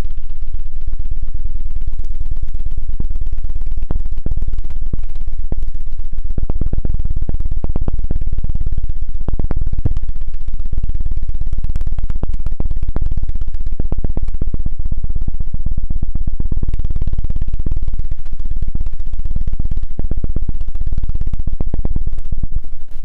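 ASMR 'helicopter' ear-cleaning trigger: loud, rapid, continuous chopping thumps worked on the ear microphone like a helicopter's rotor. It stops abruptly near the end.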